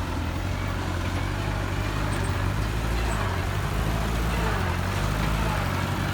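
Diesel engine of a heavy construction machine or dump truck running steadily with a low, even hum.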